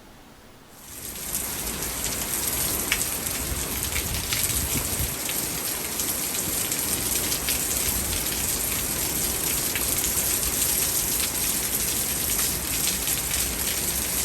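Heavy rain falling steadily, a dense hiss with scattered sharp drop ticks. It comes in suddenly about a second in.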